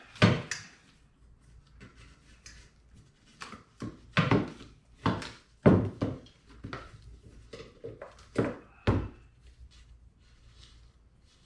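Irregular knocks and thunks, about eight spread over several seconds, as the motorcycle muffler's parts are handled and fitted back together.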